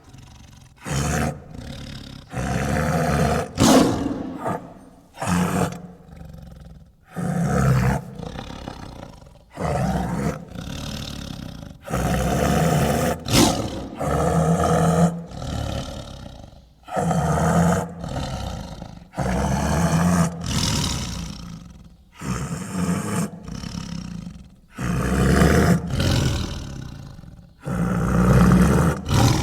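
Sound-effect roars of a sabre-toothed cat (Smilodon): about a dozen big-cat roars in a row, each a second or two long, with short pauses between.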